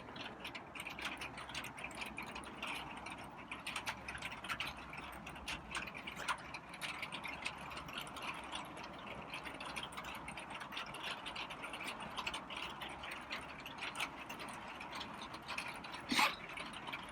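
Light rain tapping steadily, a dense patter of small drops. Just after 16 seconds comes one short louder sound, a cat's cough.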